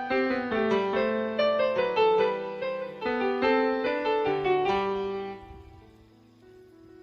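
Background piano music, a melody of struck notes that fades out over the last second and a half.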